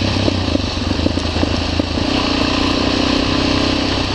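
Motorcycle engine running steadily while riding, with a constant rush of noise over it.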